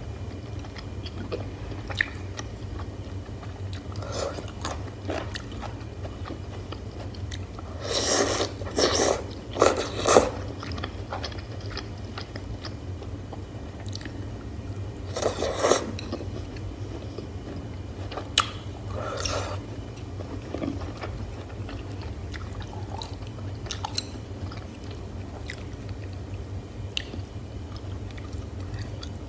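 Close-miked eating sounds: a person chewing and biting soft food with wet mouth clicks. Several louder bursts of smacking stand out, the loudest about a third of the way in. A steady low hum runs underneath.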